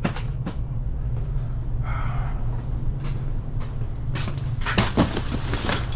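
Cases of drinks being handled onto a hand dolly: scattered knocks and clunks, coming thicker and louder in the last two seconds, over a steady low hum.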